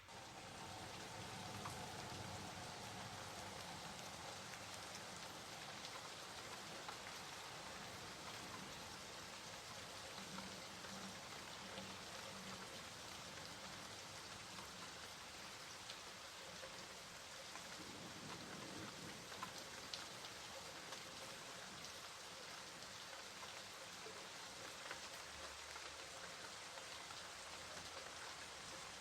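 Steady rain falling, with many small drops ticking on a surface through a constant hiss.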